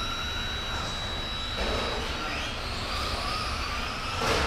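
Electric motors of radio-controlled spec trucks racing on a track, their whine rising and falling as they accelerate and slow for corners, with one truck passing close about four seconds in.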